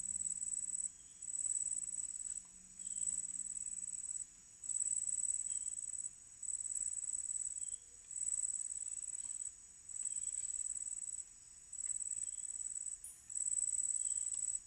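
An insect trilling high-pitched in a regular rhythm: pulses about a second and a half long, each broken off by a short pause, repeating over and over.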